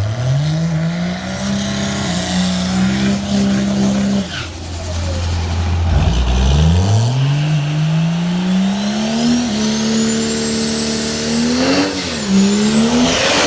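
Pro Mod drag racer engines at full throttle down the strip. The pitch climbs, cuts off about four seconds in, then climbs again from about six seconds with drops at gear shifts. A high whine rises alongside and then falls away as the racers pass.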